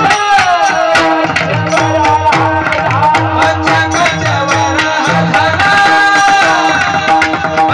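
Male voice singing a devotional kirtan melody with long held, ornamented notes, over a steady drone, accompanied by hand-drum strokes in a steady rhythm.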